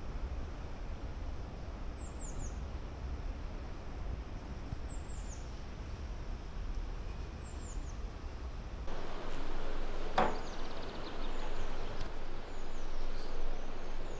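Small songbird giving short, high, falling chirps in little groups every few seconds over a low steady outdoor rumble. About two-thirds of the way through, the background turns louder and fuller and the chirps come more often.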